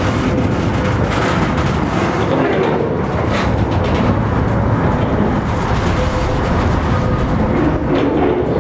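Rail-laden flat wagons of a continuous welded rail train rolling slowly over the track while being shunted by a diesel locomotive: a steady rumble of wheels and engine, with an occasional sharp clank.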